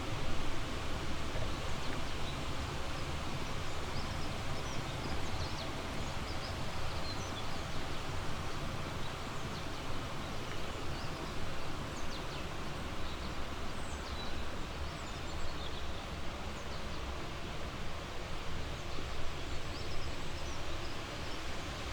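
Steady outdoor background rush, with many brief, faint, high bird chirps scattered through it.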